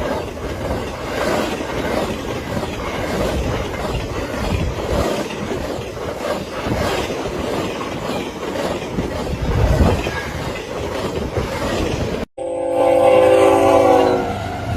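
A passing train rumbling, its wheels clattering rhythmically over the rail joints. After a sudden cut, a locomotive sounds a loud chord of several steady notes for about two seconds.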